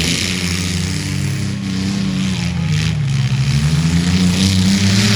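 Demolition derby mini trucks' engines running and revving, their pitch rising and falling.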